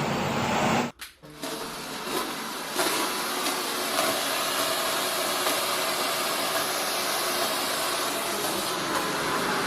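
Philips PowerPro FC9352 1900-watt vacuum cleaner running with a steady suction whoosh. It drops out briefly about a second in, then comes back and grows louder a little before three seconds in.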